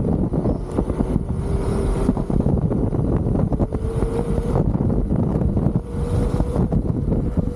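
Wind rumbling on the microphone of a moving electric unicycle, with a faint hub-motor whine that rises in pitch a couple of times as it speeds up.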